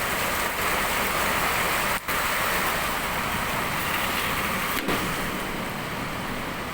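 Heavy rain falling, a steady hiss, with two brief dropouts about two seconds in and near the five-second mark.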